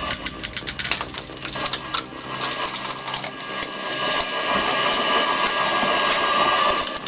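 Screw-type log splitter running, its spinning threaded cone driving into a log. Rapid cracks of splitting wood come in the first couple of seconds, then a steadier mechanical whine.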